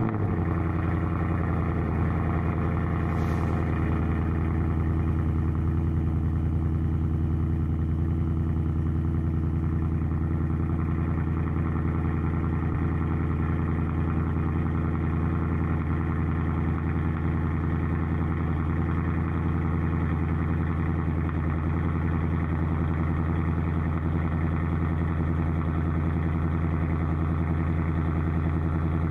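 2024 Ford Mustang GT's 5.0-litre Coyote V8 idling steadily, freshly started, on its stock exhaust without headers.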